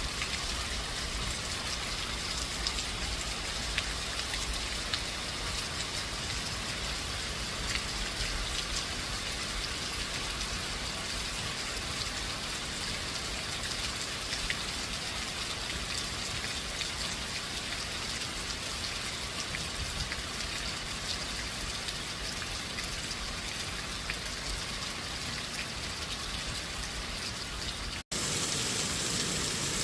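Steady rain falling, with scattered drop ticks. The sound drops out for a split second near the end and the rain resumes with a slightly different tone, as at a splice between recordings.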